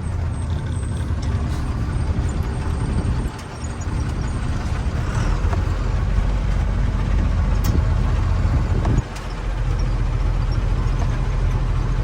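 A truck's diesel engine running steadily as it drives, with a low hum. The sound drops off briefly twice, about three seconds in and again about nine seconds in.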